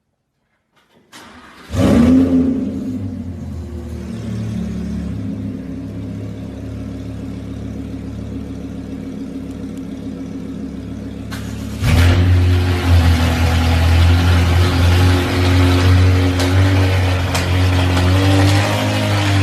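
Supercar engine starting up: it catches with a loud flare about a second and a half in, then settles into a steady idle. About twelve seconds in there is a second loud flare, after which the engine keeps running louder than before.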